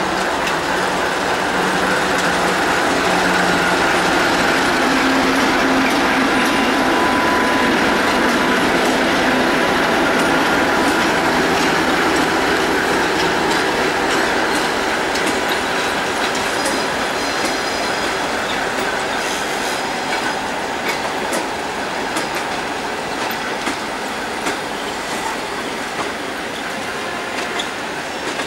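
ChME3 shunting diesel locomotive passing at low speed with its six-cylinder diesel engine running, hauling a towed ED4M electric multiple unit. As the cars roll by in the second half, the wheels click over rail joints, with faint high wheel squeals.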